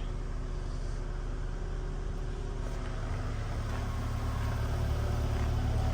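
Mazda Bongo van's engine idling steadily soon after a cold start, getting slightly louder toward the end.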